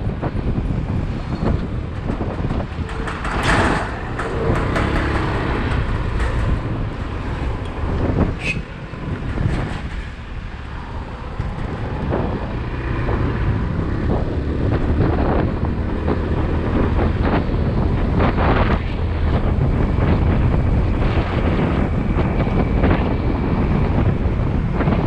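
Motorcycle riding in city traffic: steady engine and road rumble with wind buffeting the microphone, and a few brief louder moments from passing traffic.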